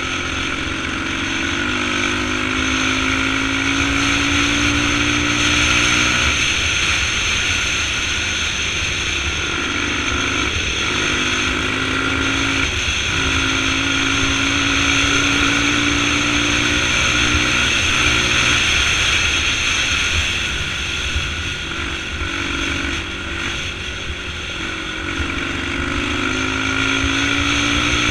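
Motorcycle engine running under way, its pitch climbing and dropping back several times as the rider works the throttle and gears, over a steady rushing noise.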